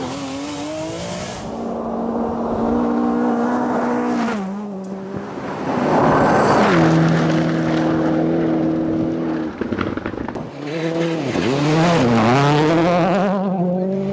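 Rally car engine running hard, its note holding steady for stretches, then falling and climbing again twice near the end as the car lifts off and accelerates, with some tyre noise mixed in.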